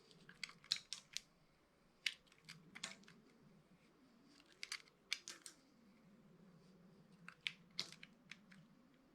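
Knife cutting through a bar of dry soap: sharp, crisp crackling crunches in four short bursts, about two seconds apart.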